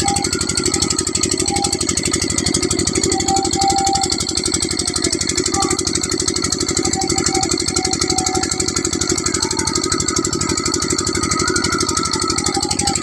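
A 12 hp engine running steadily under full load, with a fast, even beat of firing strokes.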